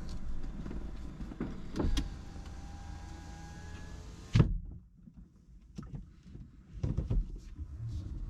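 Car power window running as the glass rises, with a faint whine over a steady hum. It ends in a loud thud about four seconds in, and the hiss from outside cuts off. A few light knocks and clicks follow.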